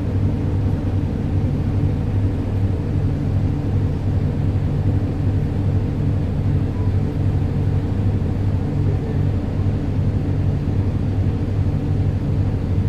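Ferry engine running in a steady low drone, heard on board while the ferry is under way.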